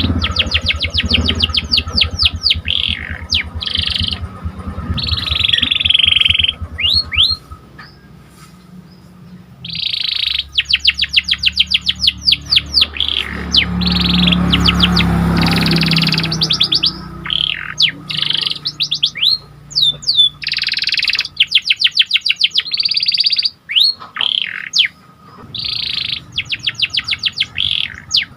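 A domestic canary singing: fast trills and rolls, runs of rapid chirps broken by short pauses. A low rumble runs underneath through much of the first half.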